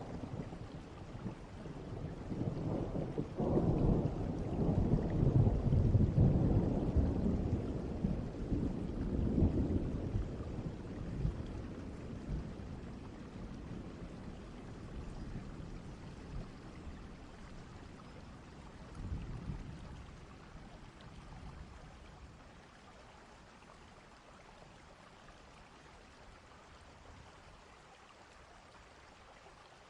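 Distant thunder from a thunderstorm: a long, deep rolling rumble that swells a few seconds in and slowly fades away, with a smaller roll near the end. Steady rain hisses underneath.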